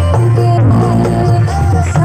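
Loud music with heavy bass, played over a sound horeg rig, a huge truck-mounted loudspeaker system, with a melody line moving above the bass.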